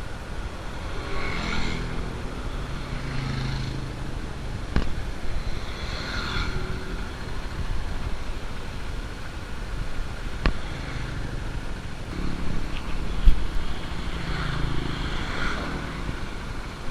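Road traffic: motorbikes and other vehicles passing, their engines rising and fading in several waves over a steady road noise, with a few sharp clicks.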